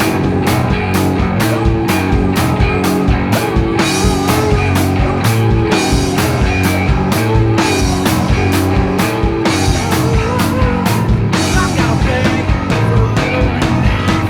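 Rock band playing: drums keeping a steady beat of about three hits a second under a heavy line from two electric basses, a Rickenbacker and a Fender.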